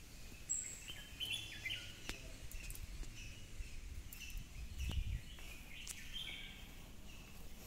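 Small birds chirping in short calls over background noise, with a few sharp clicks and a brief low rumble about five seconds in.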